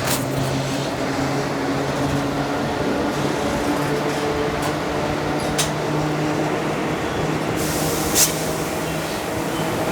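Steady hum and rumble of an Indian Railways train hauled by a WAG5 electric locomotive, heard from inside an ICF passenger coach, with a few sharp clicks and a short hiss about eight seconds in.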